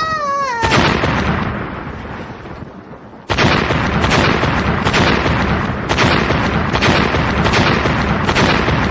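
Cannon-fire sound effects: a falling whistle that ends in an explosion dying away over a couple of seconds, then a steady run of booms roughly two a second.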